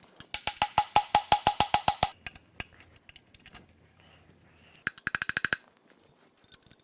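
Rapid light hammer taps, about eight a second, on a seized connecting rod and piston in a 5.7L Vortec V8 block: a two-second run with a ringing note, then a shorter run about five seconds in. The assembly does not move.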